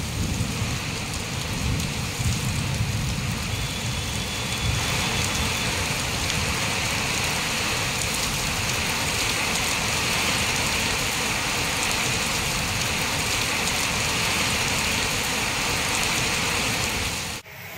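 Heavy rain pouring down steadily in a downpour. The sound breaks off abruptly for a moment near the end.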